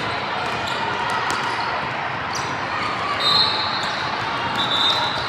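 Youth basketball game in a gym: a basketball bouncing on the hardwood court with scattered sharp knocks, two short high squeaks near the end, and a steady background of voices.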